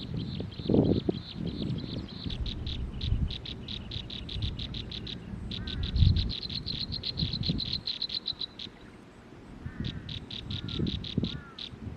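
An animal calling in rapid runs of short, high clicking notes, about six or seven a second, with a pause a little past the middle. A few short, falling chirps and uneven low rumbles and thumps sound along with it.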